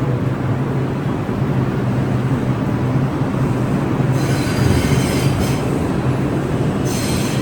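R62A New York City subway train running with a steady low rumble. About four seconds in, the steel wheels squeal on the rails in high, bright tones for over a second, and squeal again briefly near the end.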